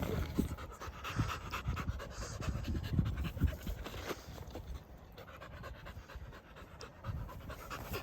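A dog panting in quick repeated breaths, quieter in the second half.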